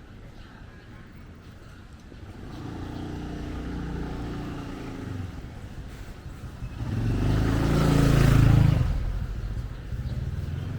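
Motor vehicle engines passing on a street. One builds up about two and a half seconds in, then a louder one passes close, loudest about eight seconds in, and fades away.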